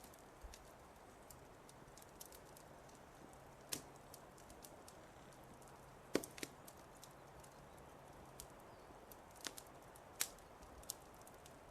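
Wood fire in a fireplace crackling: faint irregular pops and snaps over a soft hiss, with a couple of sharper pops about halfway through and near the end.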